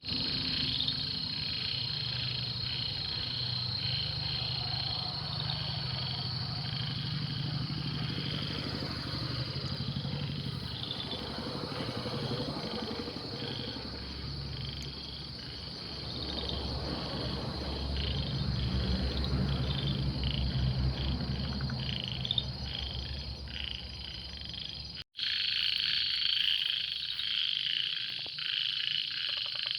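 A chorus of frogs calling: a steady high trill with many short repeated calls over it, and a low rumble underneath for most of the time. The sound drops out for a moment about 25 seconds in.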